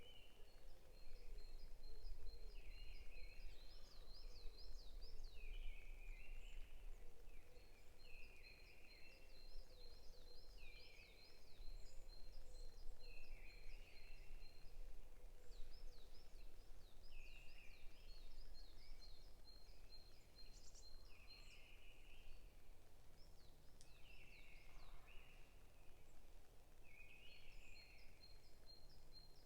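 Forest songbirds singing: one repeats a short phrase every second or two, while another gives rapid runs of high, even notes, over a steady low rumble.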